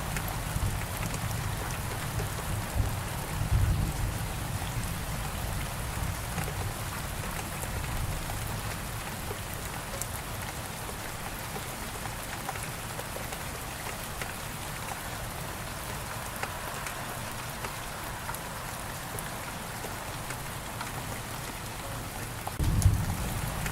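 Steady heavy rain falling. A low rumble of thunder dies away over the first few seconds, and another rumble breaks in suddenly near the end.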